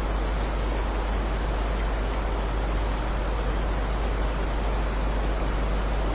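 Steady heavy rain: a dense, even hiss with no single drops standing out, over a deep low rumble.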